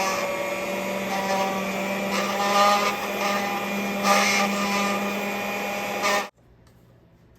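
Electric mixer running steadily, beating pound cake batter, with a constant hum and a few louder swells; it cuts off suddenly about six seconds in.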